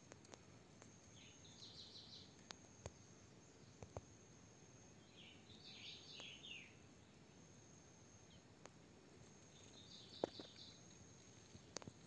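Faint woodland ambience: a bird sings three short twittering phrases a few seconds apart over a thin, steady, high insect tone. A few sharp clicks come through, the loudest about ten seconds in.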